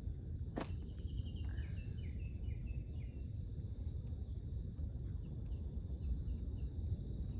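A steady low rumble of outdoor noise, with a bird singing a quick run of short falling notes about one and a half seconds in, over a thin high steady tone.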